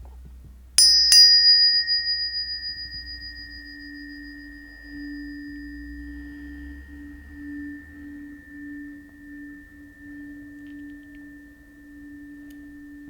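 Planetary tuning forks struck twice in quick succession about a second in, then ringing on: a high, bright ring fades away over several seconds while a steady low tone and a clear higher tone sustain. The low tone slowly swells and dips in loudness.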